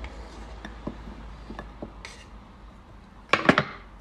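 Kitchen utensils clinking against dishes: a few light scattered taps, then a quick run of louder clatters a little past three seconds in.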